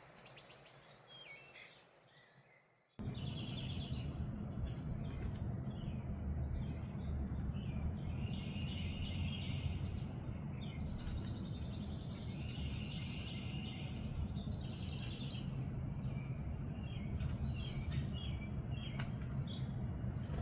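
Small birds chirping and calling in short repeated notes and trills over a steady low background noise that comes in abruptly about three seconds in; the first seconds are faint.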